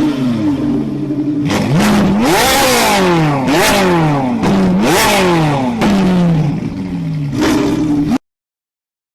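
Supercar engine revved in several quick blips while stationary, each a fast rising wail that falls back toward idle with a rush of exhaust noise at the top. It cuts off abruptly near the end.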